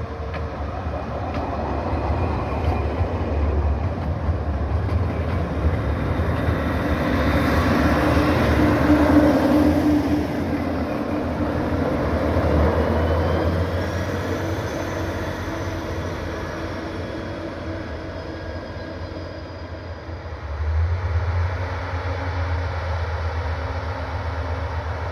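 Diesel rack railcar of the Schneebergbahn running past at low speed, its engine and the rack running gear loudest about eight to ten seconds in, then fading as it moves away. A heavy low rumble swells again about twenty-one seconds in.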